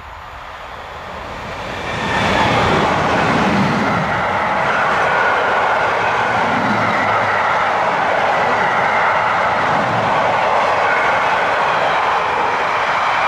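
Freight train of empty car-transporter wagons passing close by: it approaches with a rising rumble and turns loud about two seconds in as the electric locomotive goes by. After that comes a steady roar of steel wheels on the rails, with a slow recurring clatter as the wagons roll past.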